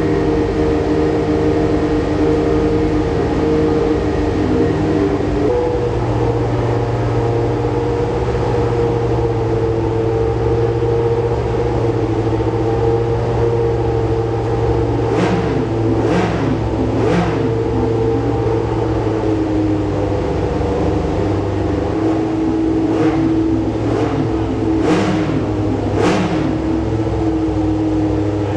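Historic Formula 1 race car engines running at a steady pitch, with six or so short sharp cracks: three a little past the middle and three more near the end.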